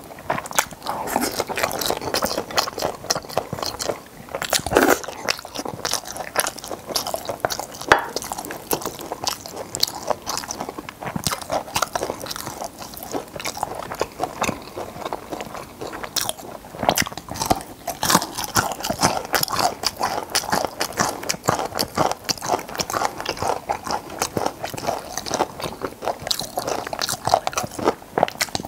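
Close-miked chewing of braised stingray, a dense run of quick crunchy clicks as the soft cartilage in the pieces is bitten through, with wet mouth sounds between.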